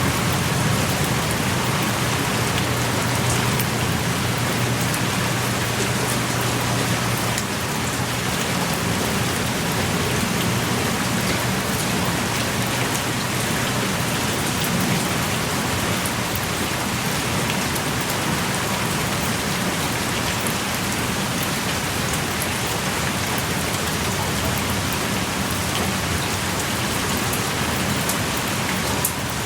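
Heavy rain pouring steadily in a forest, heard from the shelter of a small cave, with drops ticking and splashing close by.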